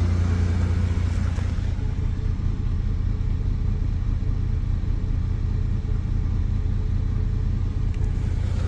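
Chevrolet S10's 4.3 Vortec V6 on Holley Sniper fuel injection, idling steadily with a low blub-blub exhaust note; the owner thinks it sounds a little on the rich side.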